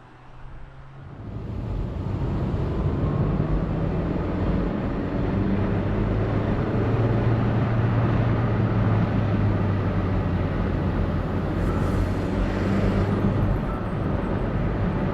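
Peugeot 306's 1.6-litre eight-valve petrol engine and road noise heard from inside the cabin while driving. It is quiet at first, then grows much louder about a second in as the car pulls away, and stays a steady drone after that.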